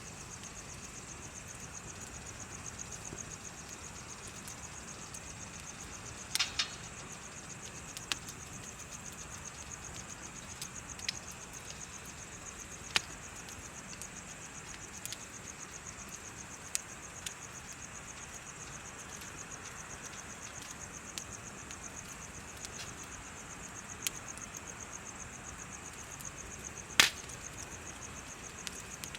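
A wood bonfire crackling, with scattered sharp pops, a cluster about a fifth of the way in and the loudest near the end. Under it runs a continuous high chirping trill of insects.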